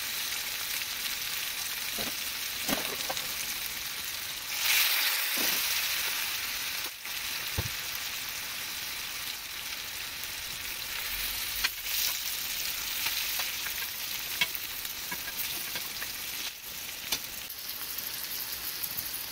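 Catfish fillets, shrimp, onions, peppers and tomatoes sizzling in a cast iron pan: a steady frying hiss with scattered pops, louder for a second or two about five seconds in.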